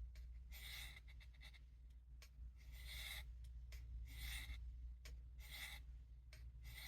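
Steel knife blade drawn along a sharpening rod in faint, separate scraping strokes, roughly one a second, as the clip of a Camillus Trailblazer is touched up. A steady low hum lies under it.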